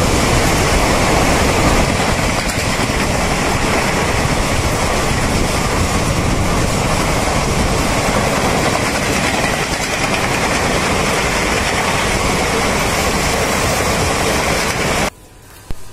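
Mumbai suburban local train running, a loud steady rumble of wheels and coach noise that cuts off abruptly near the end.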